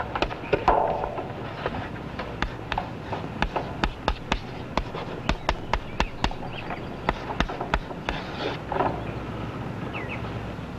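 A series of sharp, irregular clicks or knocks, about two or three a second, over a steady low hum.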